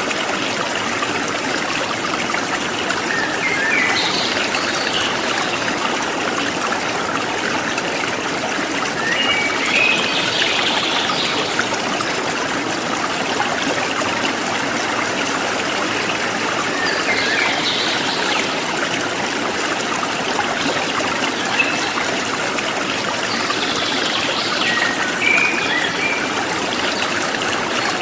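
Forest stream flowing steadily over stones, with birds chirping in short bursts every several seconds above the water.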